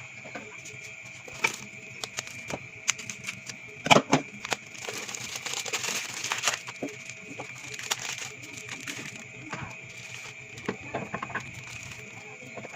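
Food packages and containers being handled and set down while a mini fridge is restocked: scattered light clicks and knocks, the loudest a quick pair about four seconds in, with packaging rustling for a couple of seconds after.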